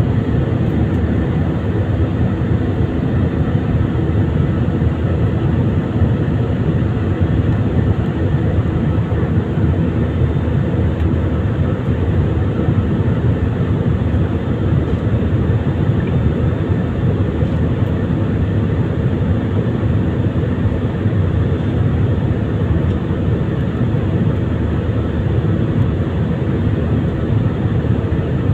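Airbus A320ceo's jet engines and rushing air as a loud, steady drone that does not change, with a few constant hums running through it.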